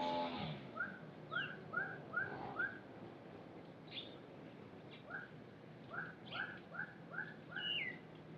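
A bird calling a quick run of short rising whistled notes, then after a pause a second run that ends in a falling slurred note. At the very start a motor winds down and fades out.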